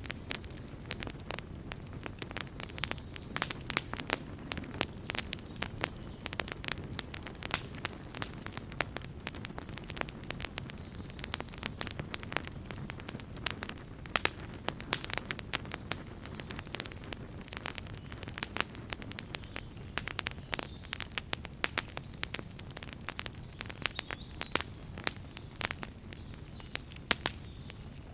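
Wood campfire crackling and popping: irregular sharp snaps over the low, steady rush of the burning fire.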